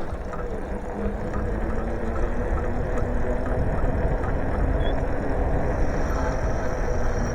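Wind rumbling on the microphone of a moving bicycle, with road noise. The sound is steady throughout.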